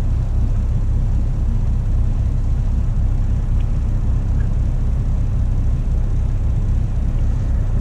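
Idling diesel truck engine: a steady, low, evenly pulsing rumble.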